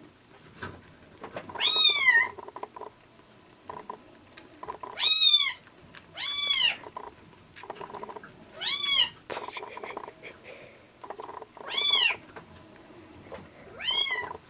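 Young kitten meowing six times, each meow about half a second long, rising and then falling in pitch, with softer sounds between the calls.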